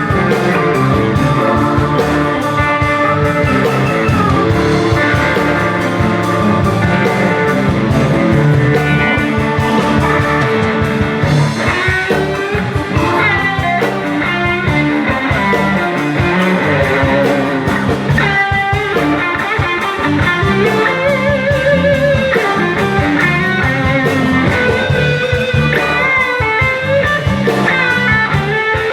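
Live blues-rock band playing an instrumental passage: a lead guitar with bent, wavering notes over drums and bass.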